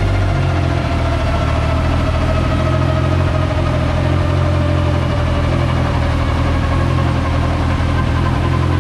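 Turbocharged Honda H22 four-cylinder engine idling steadily, with a faint whine that slowly falls in pitch.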